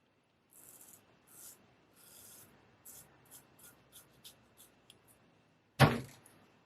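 Razor blade scraping through facial stubble in short strokes, a few longer ones and then quicker strokes about three a second. A single loud knock comes near the end.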